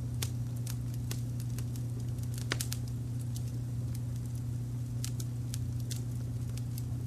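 Wood fire crackling with irregular sharp pops, the loudest about two and a half seconds in, over a steady low brown-noise layer.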